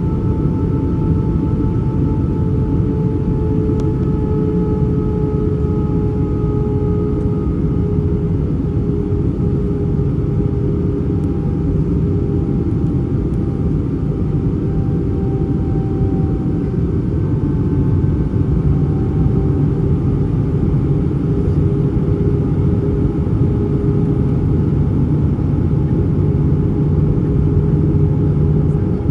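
Airbus A320 cabin noise in flight: a steady rumble of airflow and jet engines, with a few engine tones that drift slightly lower in pitch as thrust is eased, and the low rumble growing a little louder about halfway through.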